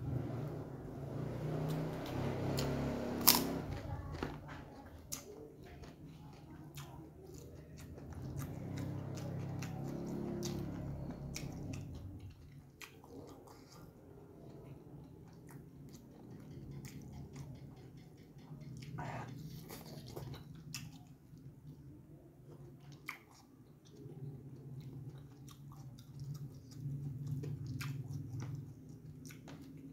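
Close-up mouth sounds of a man chewing a mouthful of rice eaten by hand, with wet smacking and scattered small clicks. A single sharp click about three seconds in is the loudest sound.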